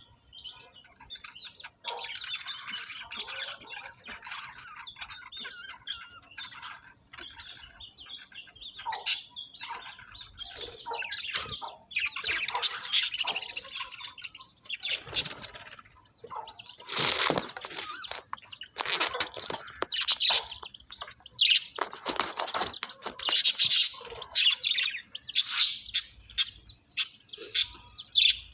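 Budgerigars chirping and warbling in continuous chatter, with a few louder bursts of wing flapping.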